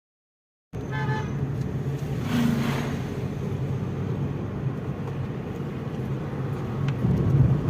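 Steady motor-vehicle running and road noise, with a short horn toot about a second in.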